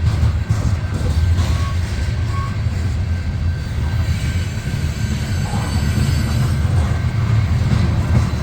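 Loaded coal hopper cars of a freight train rolling past, a steady low rumble of steel wheels on rail, with a couple of faint, brief wheel squeals early on.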